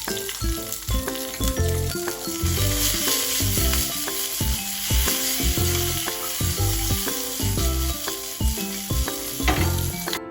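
Food sizzling as it fries in a pan, a steady hiss under background music with a steady beat. The sizzle cuts off suddenly near the end, leaving only the music.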